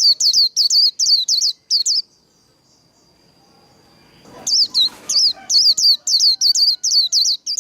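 White-eye (vành khuyên) singing its fast 'líu' song: rapid runs of high, down-slurred notes, about five a second. There are two bouts, the first ending about two seconds in and the second starting about halfway through, with a thin steady high whistle between them.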